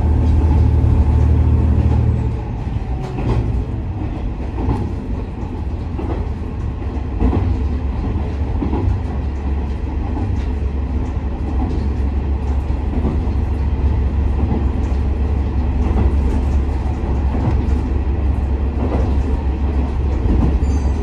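Inside a KiHa 47 diesel railcar under way: the diesel engine drones loudly under power for about two seconds, then eases off, and the car runs on with the wheels clicking over rail joints.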